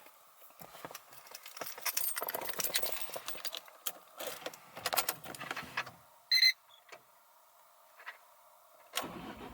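Car keys jangling and clicking as they are handled before starting the car, with a short electronic beep about two-thirds of the way through.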